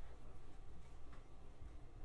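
Low, steady hum inside the cabin of a JR 125-series electric train, with a faint click about a second in.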